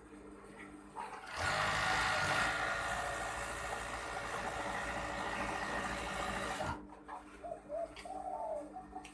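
Overdeck (coverstitch) sewing machine running at speed for about five seconds, starting about a second and a half in and stopping suddenly. A dove coos faintly near the end.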